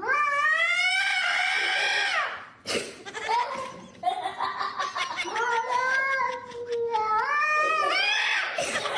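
A cat yowling in long, drawn-out calls that rise and fall in pitch: one of about two and a half seconds, a longer wavering one from about four seconds in, and a rising one near the end.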